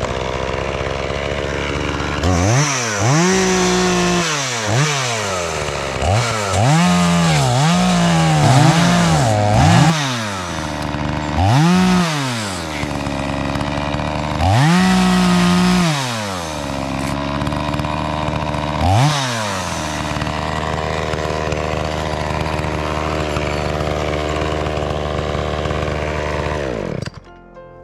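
Chainsaw cutting up a fallen tree: it runs steadily and is revved repeatedly, each rev a rise and fall in pitch lasting about a second, with a cluster of revs in the first half. The engine cuts off suddenly near the end.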